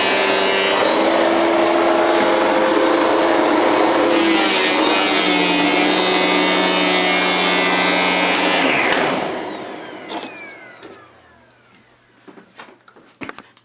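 Electrolux Ultra Active bagless canister vacuum running at full power, its motor note shifting a couple of times. About nine seconds in it is switched off and the motor whines down. A few clicks and knocks come near the end.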